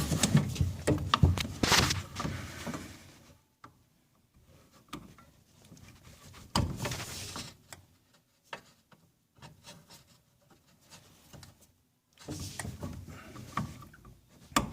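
Handling noises from work on the washer pump and its hoses: rubbing and light knocks in short spells, with quiet stretches between.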